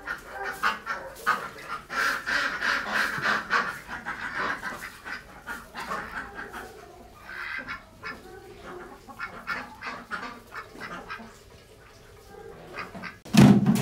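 A flock of domestic ducks quacking and honking, many calls overlapping for the first several seconds, then thinning out. A single loud thump near the end.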